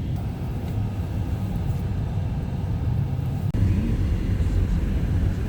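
All-wheel-drive car on the move, a steady low rumble of engine and road noise, with a brief dropout about three and a half seconds in.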